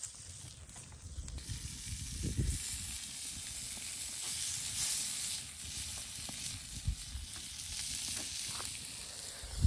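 A steady sizzling hiss, with a few soft low thumps.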